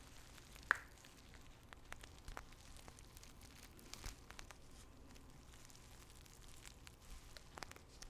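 Tea bags handled close to the microphone: soft, irregular crinkles and crackles, with one sharper crackle under a second in.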